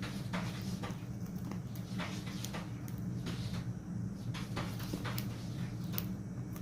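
Cockatiel cracking millet seeds with its beak: small sharp clicks at an irregular pace, a few each second, over a steady low hum.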